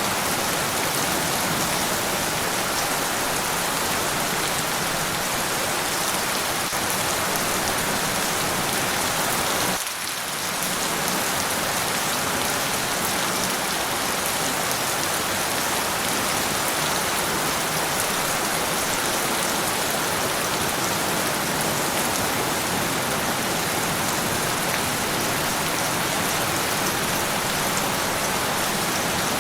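Steady rainfall: an even hiss of many drops landing. It dips briefly about ten seconds in.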